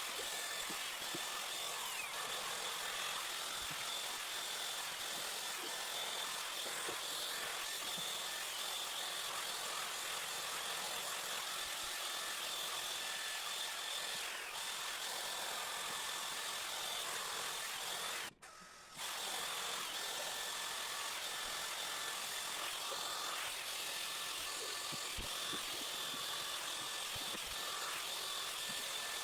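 Cecotec RitualCare Lisse hair-drying straightener blowing air, a steady rush with a faint high whine. It cuts out for about half a second about two-thirds of the way through.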